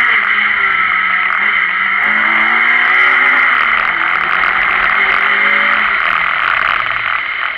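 Renault Clio Sport's engine heard from inside the car, running at moderate revs that rise and ease off, under a steady hiss of road and wind noise.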